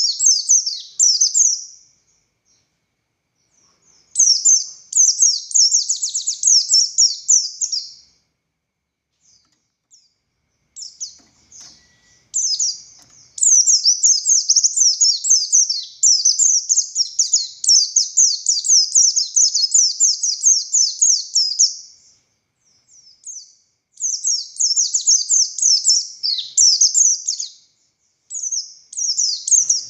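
A white-eye (pleci buxtoni) singing long, fast, high-pitched twittering phrases in rapid-fire bursts. The phrases last from a couple of seconds to about ten, with short pauses between them.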